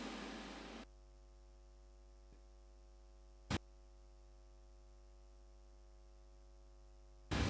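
The tail of an electronic trance track fades out in the first second after playback stops. Then there is near silence with a faint steady mains hum and a single sharp click about three and a half seconds in, before the track's playback starts again near the end.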